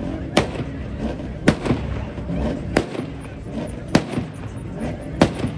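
Sharp, loud bangs about every second and a bit over a low engine rumble, each followed by a brief falling sound: a car's exhaust banging as it is revved at a car meet.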